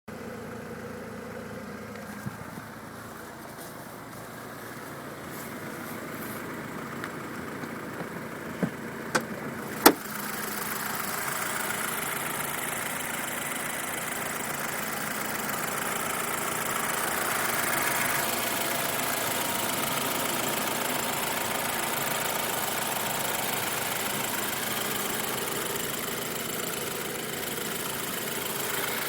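BMW Z4 sDrive20i's 2.0-litre turbocharged four-cylinder engine, heard with the hood open. There are a few clicks in the first ten seconds, and then the engine starts about ten seconds in and settles into a steady idle.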